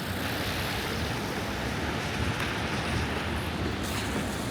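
Steady rushing noise of city street traffic, mixed with wind buffeting the microphone.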